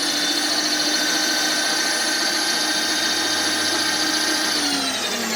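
Milling machine spindle running with a steady whine, then switched off about four and a half seconds in, its pitch falling as it spins down.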